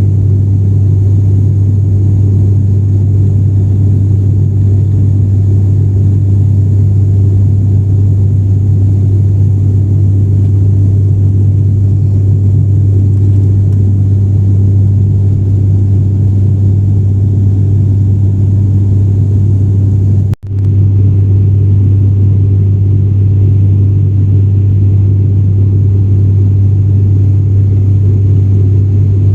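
ATR turboprop airliner in flight, heard from inside the cabin: its engines and propellers make a loud, steady low drone with a deep hum. The sound cuts out for a split second about twenty seconds in, then resumes unchanged.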